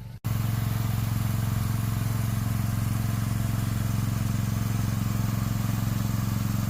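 Engine of the shed-delivery vehicle running steadily close by, a constant low hum as it manoeuvres slowly. It cuts in suddenly just after the start.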